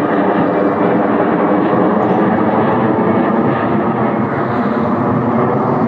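Jet airliner engines running loud and steady: a dense, even rushing noise with no clear pitch.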